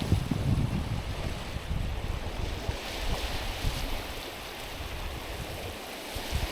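Small waves washing in over a stony, pebbly shore, with low rumbling in the first few seconds and a brighter hiss of water over the stones about three seconds in, then easing off.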